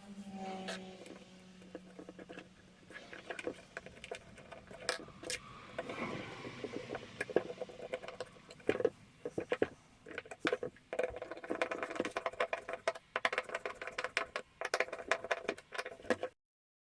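Irregular clicks, taps and light rattles of small hard parts being handled, with a brief low hum at the start.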